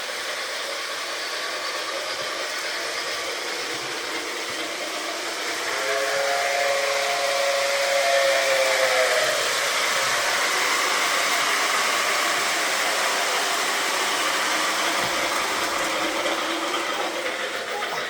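Model steam locomotive's sound system hissing steadily, with its chime whistle blown once for about three seconds, starting about six seconds in.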